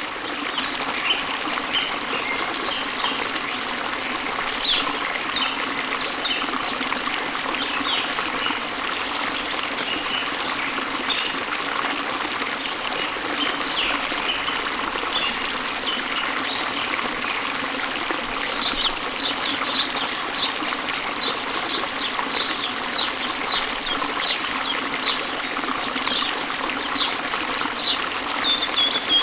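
Running water splashing and trickling steadily, with small birds chirping throughout. About two-thirds of the way in the chirping grows busier, with quick runs of short high notes.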